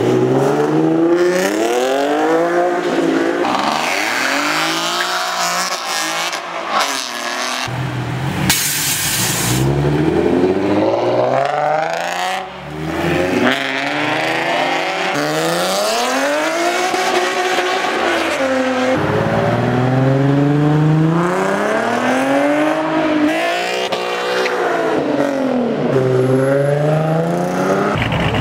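Sports-car engines, mostly Nissan 370Zs' 3.7-litre V6s, revving hard as the cars pull away one after another. Each run climbs in pitch through a gear, drops at the shift and climbs again. A short hissing burst comes about eight seconds in.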